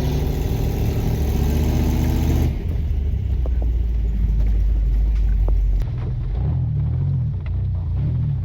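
Off-road truck engine running under way with a heavy, steady low rumble. It carries a clear engine tone for the first couple of seconds, and the sound changes abruptly twice.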